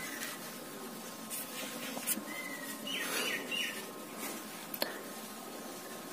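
Faint bird chirps in the background: a short gliding chirp about two seconds in, then three quick chirps a second later. A few light clicks of the phone being handled.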